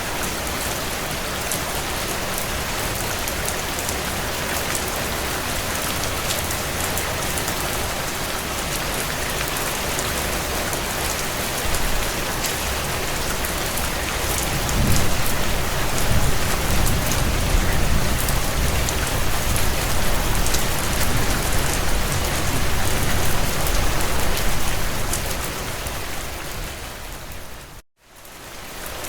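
Heavy rain pattering steadily on window glass. About halfway through a low rumble swells and lasts some ten seconds. Near the end the sound fades out to a brief silence and comes back.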